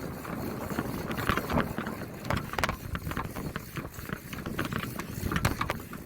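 Bicycle riding, with wind buffeting the microphone of the bike-mounted camera as a steady rumble and frequent short rattles and clicks from the bike.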